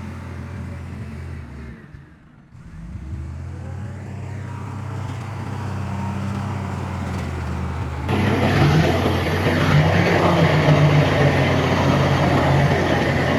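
Heavy diesel earthmoving machinery running with a steady low engine hum, dipping briefly about two seconds in. About eight seconds in the sound jumps suddenly louder and harsher, with a dense mechanical noise over the engine.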